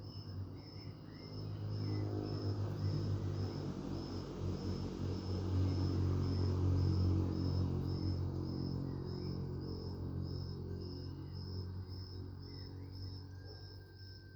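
A cricket chirping steadily, about two chirps a second, while a low rumble swells up, peaks in the middle and fades away, like a vehicle passing.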